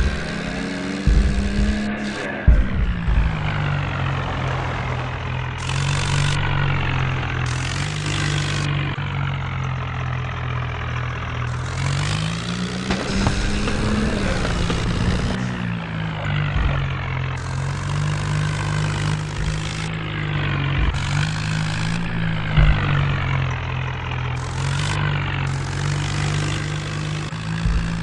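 Swaraj tractor's diesel engine running as it is driven, its pitch rising and falling as the revs change, with a few low thumps in the first few seconds.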